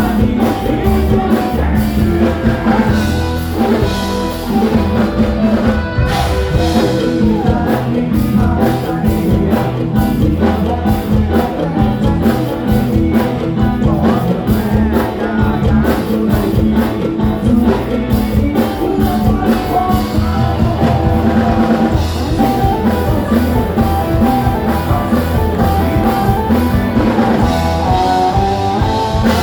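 A live band playing amplified music with a steady drum beat and a singer.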